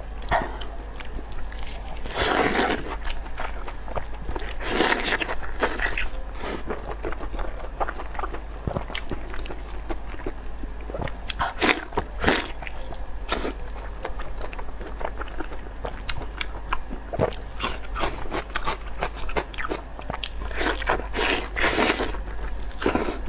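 A person eating close to the microphone: biting and wet chewing of cooked intestines, in irregular bursts with louder smacking bites about two, five, twelve and twenty-one seconds in.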